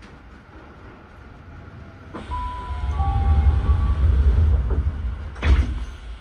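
Railway rumble swelling about two seconds in, with a few brief high squealing tones over it, then a sharp knock near the end as it dies away.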